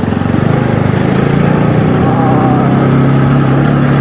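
Motorcycle engine running steadily under way on a rough track, with wind noise on the microphone.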